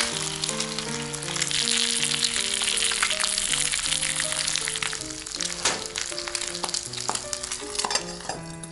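Food frying in a pan over a small fire, a dense sizzle that thins out in the second half, with a couple of sharp clicks. Background music with a simple melody plays throughout.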